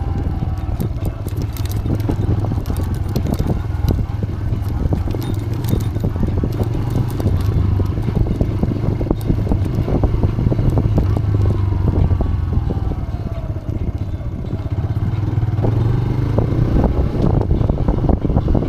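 TVS Raider 125's single-cylinder engine running on a rough off-road trail, with frequent clicks and rattling knocks over it. The revs ease off about two-thirds of the way through and then pick up again.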